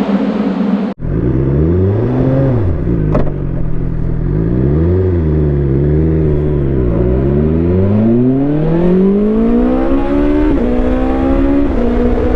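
BMW S1000XR inline-four engine with an Akrapovič exhaust. It runs steadily at high revs, cuts out briefly about a second in, and then revs rise and fall in throttle blips. After that comes a long climb in revs, broken by two upshifts near the end.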